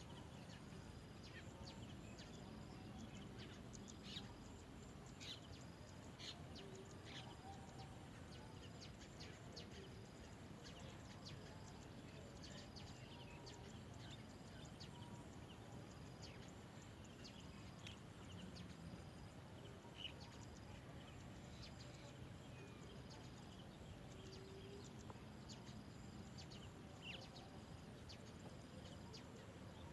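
Faint outdoor background hiss with scattered short, high bird chirps, and a faint high note repeating about once a second.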